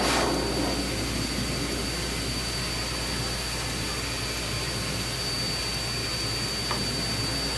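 Steady rushing noise of a motor-driven blower running without a break, with a faint thin high whine over a low hum. It is louder just at the start, then settles.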